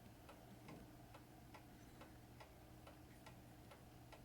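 Near silence with faint, regular ticking, a little over two ticks a second, over a low steady hum.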